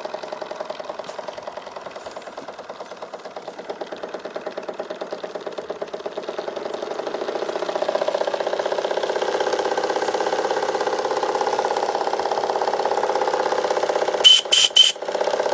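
Model steam launch's Anton Cristal steam engine running steadily with rapid, even beats, growing louder about halfway through. Near the end the steam whistle gives three short high toots.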